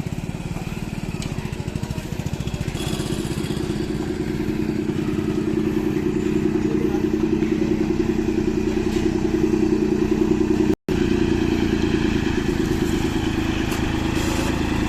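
John Deere tractor's diesel engine running hard under load while pulling a train of four trolleys. The steady engine note grows louder over the first several seconds. The sound cuts out for an instant about eleven seconds in.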